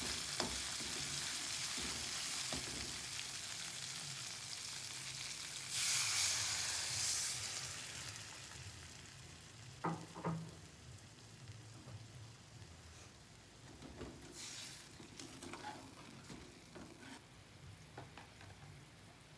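Food sizzling in a frying pan, the hiss swelling suddenly about six seconds in and then dying down. There are two sharp knocks of a utensil against the pan around the middle, and a few lighter clicks later.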